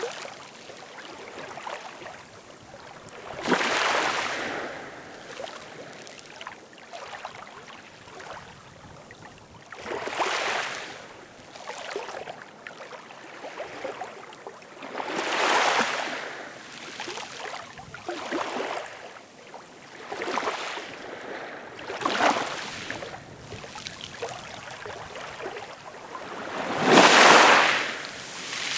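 Ocean waves breaking in a steady wash of surf, swelling into a louder surge every few seconds, the biggest one near the end.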